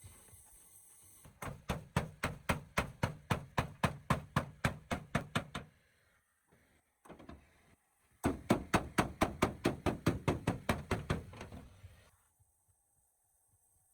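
Two runs of rapid, evenly paced knocks, about five a second, each lasting about four seconds with a short pause between.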